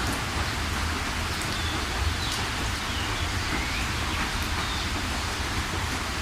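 Steady rain falling, with a few bird chirps a couple of seconds in.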